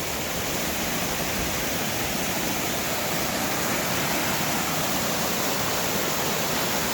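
Steady rush of water pouring over a 40-foot waterfall and along its creek.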